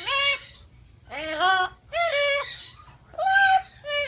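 Common hill myna (beo) calling: about four short, high-pitched calls in a row, each rising in pitch at its start.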